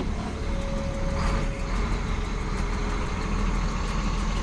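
Old Scania truck's diesel engine running steadily at low revs as it is set off in low-range third gear of its manual gearbox, a gear it is reluctant to pull away in.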